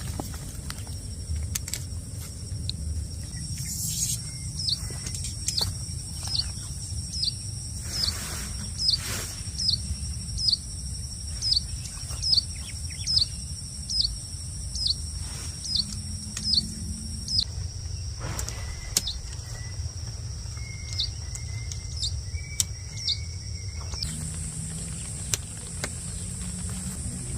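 A bird repeating a short, high, falling chirp about one and a half times a second, pausing, then giving three more near the end. Beneath it run a steady high insect drone and a low rumble, with a few scattered knocks.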